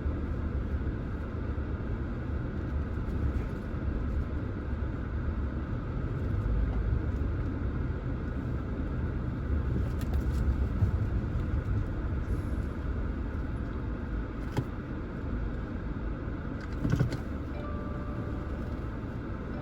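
A car driving, with steady low road and engine rumble. A faint steady tone comes in near the end.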